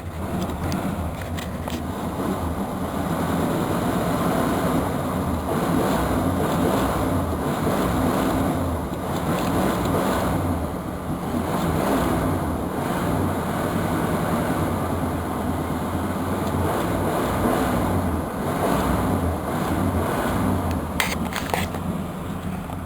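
1985 Chevrolet Caprice's 305 cubic-inch small-block V8 running steadily after a cold start, with its malfunctioning choke plate jammed open. A few light clicks near the end.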